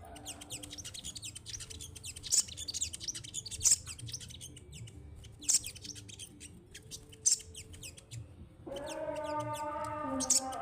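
A sogon songbird singing a fast, busy string of sharp high chirps and twitters, with a few louder calls standing out. From about two-thirds of the way in, a louder steady sound with several held pitches comes in underneath.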